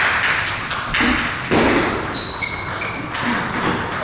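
Table tennis ball bouncing and clicking off the table and paddles in a series of sharp knocks, over a general hum of chatter in the hall.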